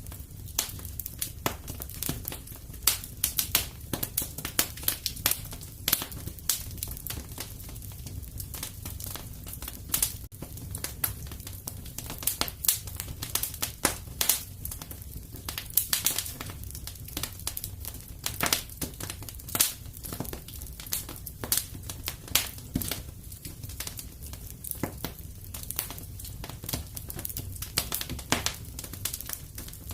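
Wood fire crackling: a steady stream of sharp pops and snaps of varying strength over a low, even rumble of the flames.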